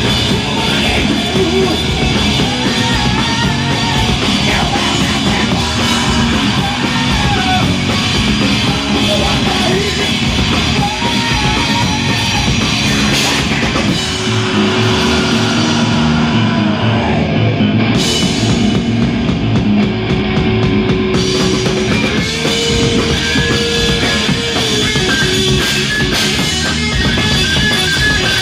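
Rock band playing live with drum kit and electric guitars in an instrumental passage. A melodic line wanders through the first half, and held notes ring out later.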